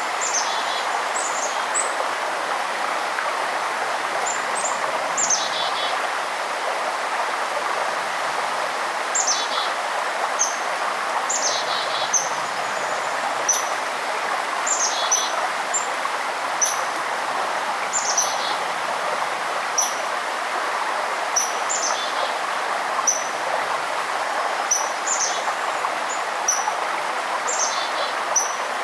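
Steady rushing of a forest stream, with a small songbird repeating a short call that drops in pitch every second or two, mixed with short high chips.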